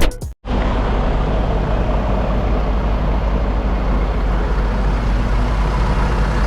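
A short tail of intro music cuts off in the first half second, then a truck's diesel engine idles steadily with an even low hum.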